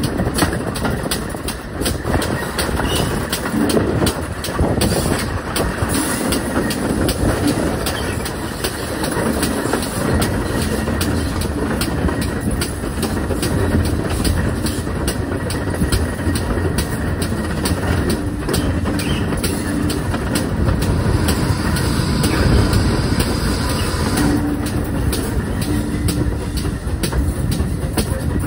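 Steam-hauled train running along the line: a steady rumble with the wheels clicking over the rail joints.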